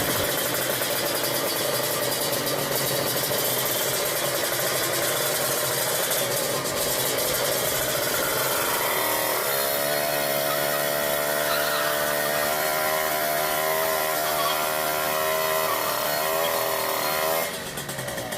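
Motorcycle engine running hard at high revs. About halfway through, a steady whining pitch with a slight waver comes in and holds for several seconds, then drops away near the end.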